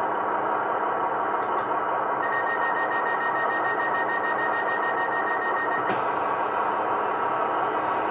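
A model railway DCC sound decoder plays a diesel multiple unit's engines running steadily through the model's small speaker; the sound project is made for a two-car class 158. About two seconds in, a high, rapidly pulsing tone joins and lasts nearly four seconds.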